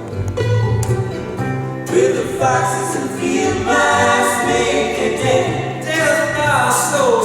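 Live folk-pop band performance: several voices singing together in harmony, with sliding vocal lines over a steady bass note.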